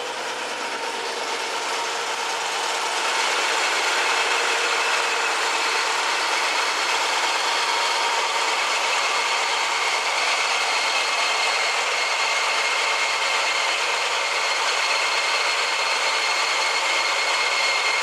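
1968 Chevrolet El Camino idling with its air conditioning running, the system now cooling. It makes a steady whir and hiss with a faint high whine, growing louder over the first three seconds and then holding steady.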